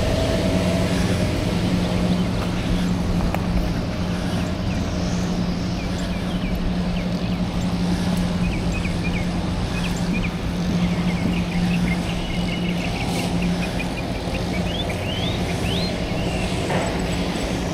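Steady wind and rolling noise from a moving bicycle, heard on a chest-mounted camera, with a constant low hum. Birds chirp on and off over it, with a few rising calls near the end.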